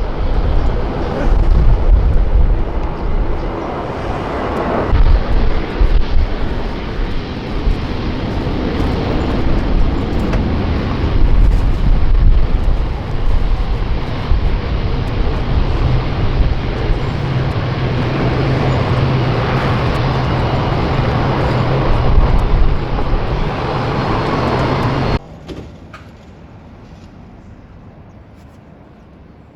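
Jet airliner's engines running loud and close, a dense rush of noise over a deep rumble, with a steady low hum joining about halfway through. The noise cuts off suddenly near the end, leaving only faint background noise.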